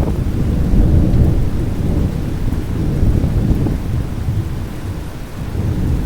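Thunder rumbling low and continuously over falling rain during a thunderstorm.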